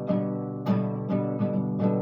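Acoustic guitar strummed in a steady rhythm, with a chord struck roughly every half second and the strings ringing between strokes.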